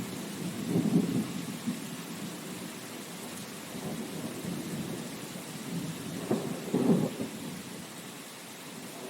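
Steady rain with low rumbles of thunder, swelling about a second in and again near the end.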